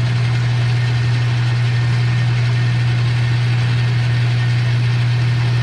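Metal lathe running steadily with a strong, constant low hum.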